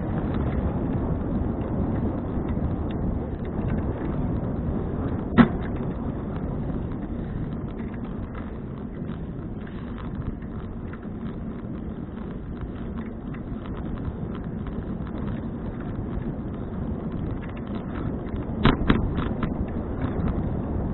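Steady wind rush on the action camera's microphone and road rumble from a 2012 Fuji Touring bicycle being ridden, with a sharp knock about five seconds in and a quick cluster of clicks and rattles near the end.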